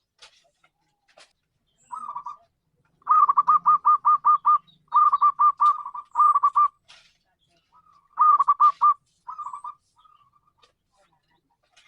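Zebra dove (local perkutut) singing its cooing song. A short phrase comes first, then quick rolling runs of staccato coos, about five notes a second, repeated in three bursts with brief pauses between.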